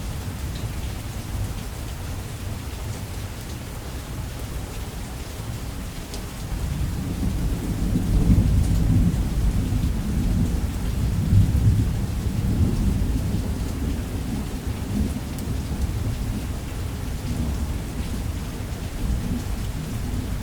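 Steady heavy rain with a long, deep rolling rumble of thunder that swells about seven seconds in, peaks twice, and slowly dies away.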